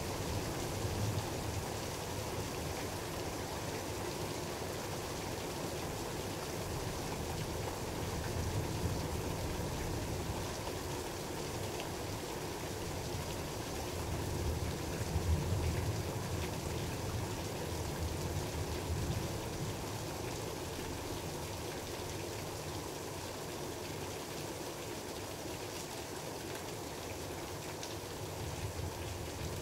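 Steady rain during a thunderstorm, an even hiss of falling drops, with a low rumble that swells a few times and is strongest about halfway through.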